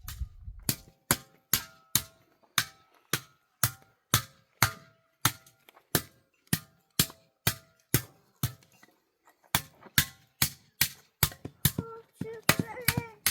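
A tool striking repeatedly and evenly, about two sharp blows a second, each with a short ring; near the end the blows come faster and a voice is heard over them.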